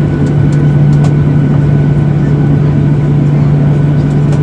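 Jet airliner cabin noise with the engines running: a steady low hum over a loud, even noise. No squeak is heard.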